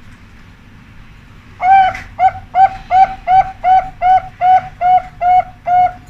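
Zebra dove (perkutut) cooing: after a short lead-in note, a rapid run of about eleven short, clipped coos at an even pace of roughly two to three a second.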